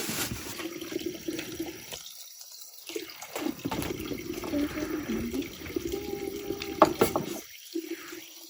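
Water running and splashing, as at a tap or sink, with a sharp knock about seven seconds in.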